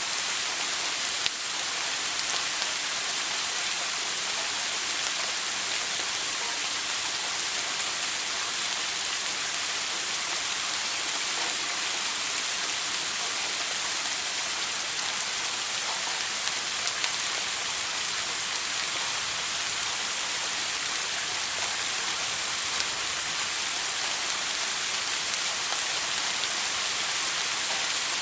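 Shower running: water spray falling in a steady, even hiss, with a few faint clicks of drops now and then.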